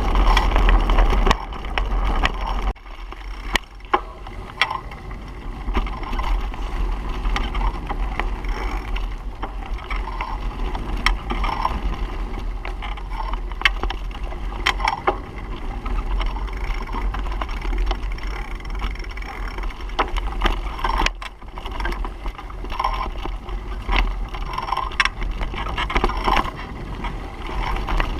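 Wind buffeting the microphone on a moving bicycle, a heavy low rumble over a steady noise, with scattered sharp clicks and rattles. The rumble is strongest at the very start and eases after about a second and a half.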